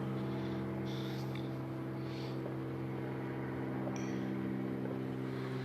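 A steady machine hum, unchanging, with a low tone and several even overtones above it.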